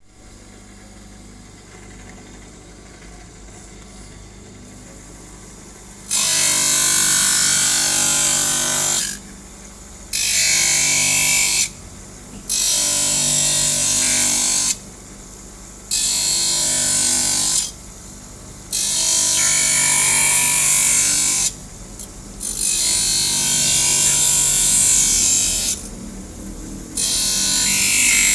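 A handheld grinder shaping the edge of an eyeglass lens in repeated grinding passes of two to three seconds each, with short pauses between them. The first few seconds hold only a quieter steady hum.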